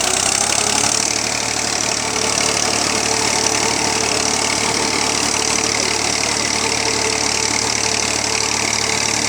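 Tractor engine idling steadily, with a fast, even pulsing.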